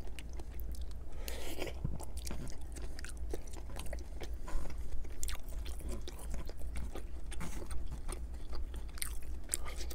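Close-miked chewing and wet mouth sounds of a person eating chow mein noodles, many small sharp clicks and smacks throughout, over a steady low hum.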